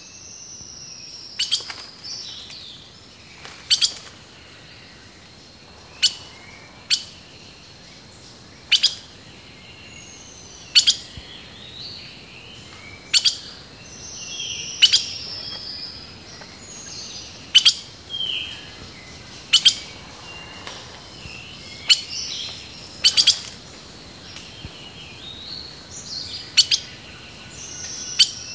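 Songbirds chirping and singing: loud, sharp chip notes come about every two seconds, with short whistled phrases between them, several of which slide down in pitch.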